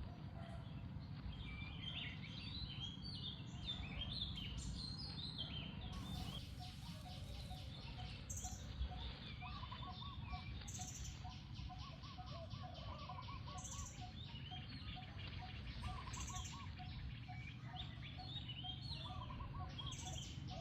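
Birds chirping and calling over a steady low background rumble, with a fast, even run of ticks joining in about six seconds in.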